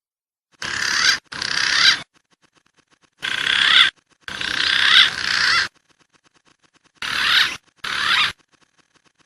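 Recorded wild pigeon calls from a pigeon lure track: high, wavering whistled phrases in six short bursts, grouped in pairs. Each burst swells and then cuts off sharply.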